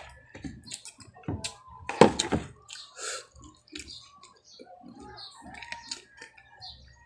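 Close-up mukbang eating sounds: wet chewing and lip smacking of steamed mussels and rice, with clicks of mussel shells handled by hand, loudest about two seconds in.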